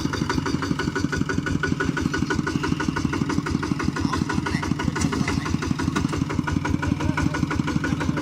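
Kubota RT single-cylinder diesel engine of a walk-behind hand tractor running steadily, a fast, even chugging that does not change pitch.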